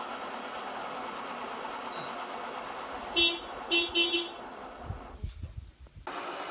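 Three short horn-like toots, the last two close together, over a steady background noise, followed by a few low thumps.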